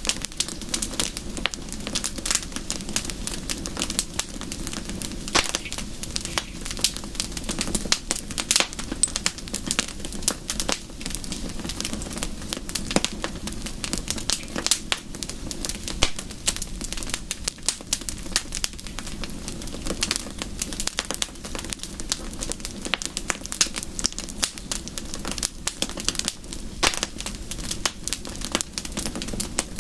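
Wood fire crackling: dense, irregular sharp pops and snaps over a steady low rush.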